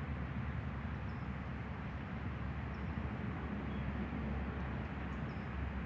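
Steady outdoor background rumble, strongest in the low end, with a few faint, short high chirps a second or two apart.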